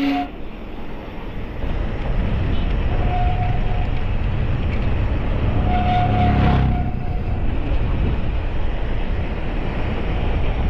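Steady wind and road rumble of a moving ride, with a brief pitched sound about six seconds in.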